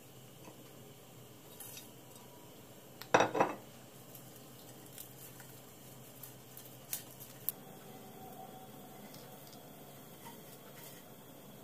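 Kitchen dishes and utensils handled: a loud double clatter about three seconds in, as of a dish or utensil set down on a hard surface, then a few light clicks a few seconds later.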